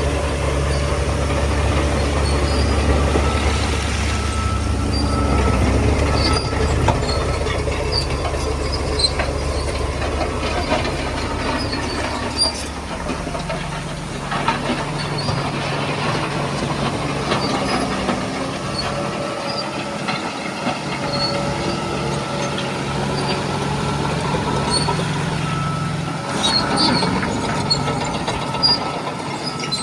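Shantui DH17C3 crawler bulldozer working: its diesel engine runs steadily while the steel tracks clank and squeal. The engine note drops about halfway through.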